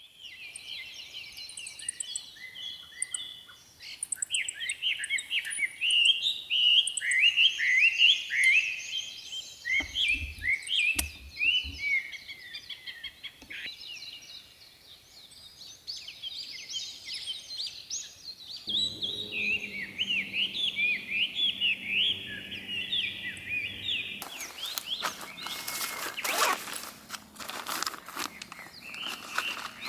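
Many songbirds chirping and singing in quick, overlapping phrases. About two-thirds of the way through a low steady hum joins in, and near the end a stretch of scratchy noise covers the birds.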